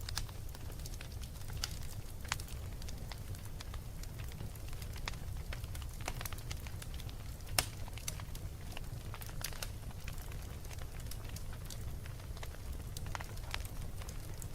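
Fire crackling: a steady low rumble with scattered sharp pops and snaps, one louder pop about halfway through.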